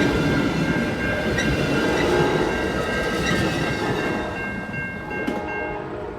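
Train rolling by on the rails, with faint wheel clicks and a steady high tone, its sound slowly fading as it moves away; the high tone stops near the end.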